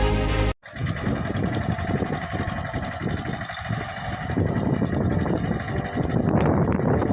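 Music cuts off about half a second in, giving way to a Mahindra Yuvraj 215 mini tractor's single-cylinder diesel engine running steadily. The engine grows a little louder near the end.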